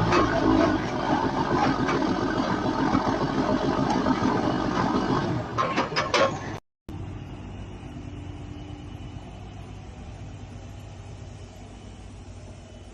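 Heavy logging truck's engine working hard, loud with a dense rushing noise and a few sharp clicks near its end; it cuts off abruptly about six and a half seconds in, and a quieter engine then runs steadily.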